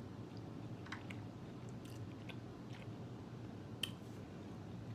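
Close-miked chewing of boiled meat, with scattered soft wet mouth clicks and one sharper click about four seconds in, over a faint low hum.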